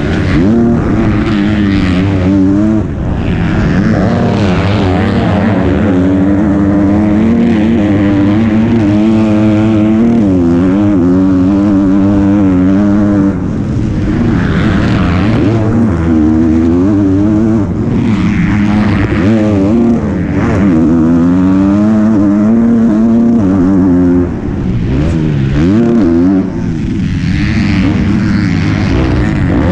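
MX2 motocross bike engine heard from onboard, revving hard and continuously, its pitch climbing and dropping again and again with throttle and gear changes, with a few brief dips in loudness.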